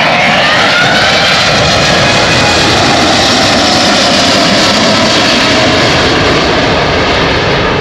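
Boeing 787-8 jet engines at high thrust during a go-around: a loud, steady jet noise with whining fan tones that shift in pitch, easing slightly near the end.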